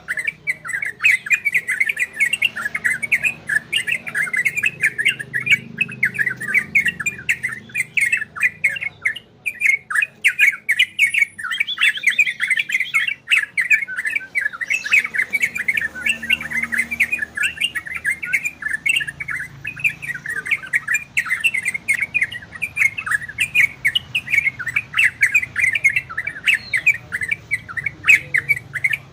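Yellow-vented bulbuls (trucukan) chattering: a dense, unbroken run of short, quick calls, with a brief higher rapid trill about twelve seconds in.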